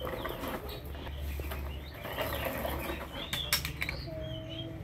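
Small birds chirping in short calls, with a few sharp clicks about three and a half seconds in.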